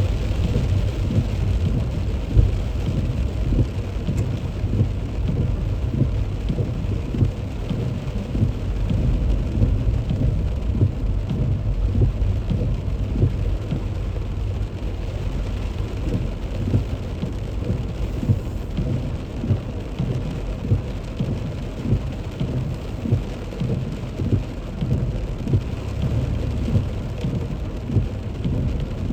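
Heavy rain drumming steadily on a moving car, a dense patter of drops over a low rumble, with no separate loud crack or event.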